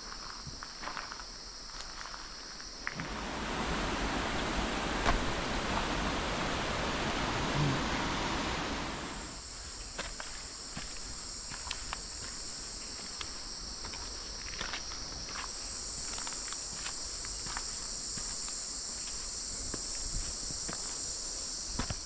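A steady, high-pitched chorus of insects in tropical rainforest, with scattered footsteps on a forest trail. From about three seconds in to about nine seconds, a louder, even rushing noise rises over it and then dies away.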